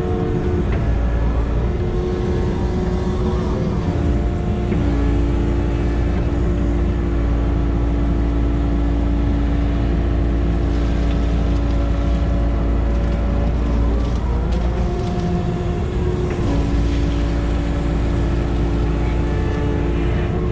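Engine of an earth-moving machine digging pond mud, running steadily with a low rumble and changing pitch as it works, dropping and picking back up twice.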